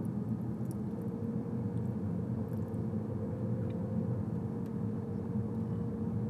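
A car being driven slowly: a steady low engine and road rumble, with a faint even hum joining about a second in.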